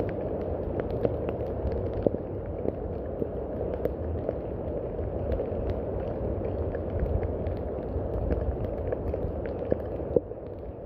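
Steady heavy rain, a dense even hiss with a low rumble under it and many scattered sharp drop ticks; the level dips slightly about ten seconds in.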